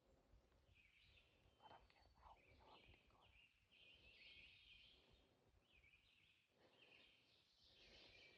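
Faint songbirds chirping and singing in short, repeated high phrases one after another.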